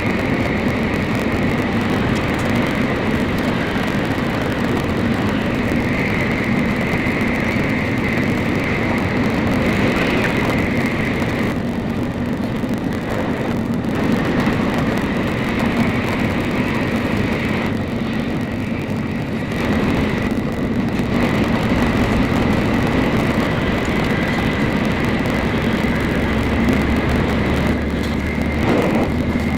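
Shinkansen Nozomi cabin running noise at speed: a steady rumble with a constant high whine, sped up to double speed. The upper part drops away briefly a few times in the middle.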